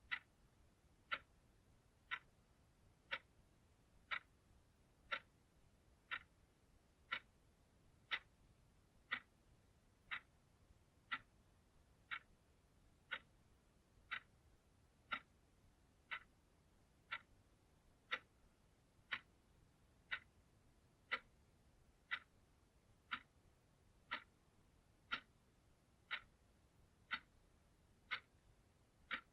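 Analog clock ticking steadily, one sharp tick each second.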